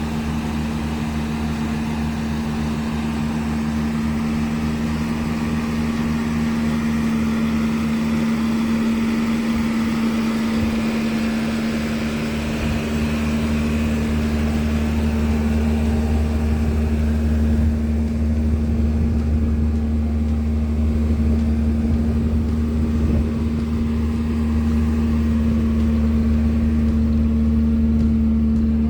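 Car engine idling steadily, the 2.3-litre Ford four-cylinder of a 1934 Jaguar SS100 replica.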